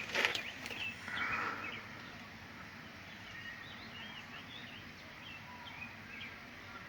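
Birds chirping: a scatter of short, high chirps over quiet outdoor background noise, after a brief rustle in the first second or two.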